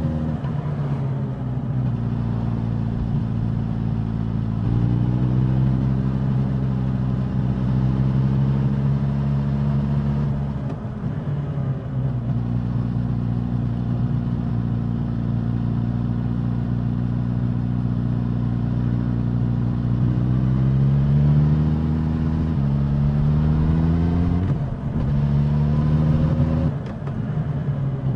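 Suzuki GSX-S1000's inline-four engine and exhaust on the move, revs rising and falling with the throttle. The pitch steps up about five seconds in, eases off near the eleven-second mark, then climbs through several quick upshifts in the last third.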